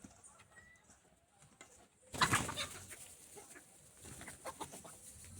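Birds calling, with a sudden loud noise about two seconds in that fades over half a second.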